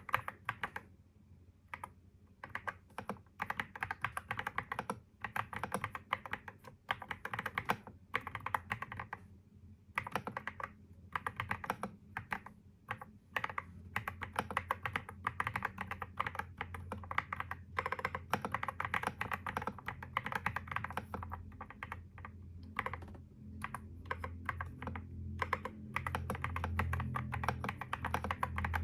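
Typing on a computer keyboard: quick runs of key clicks broken by short pauses. A low hum under the clicks grows louder in the second half.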